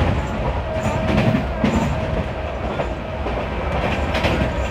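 Passenger train running at speed: a steady rumble of wheels on rail with wind noise, and a few sharp clacks as the wheels pass over rail joints.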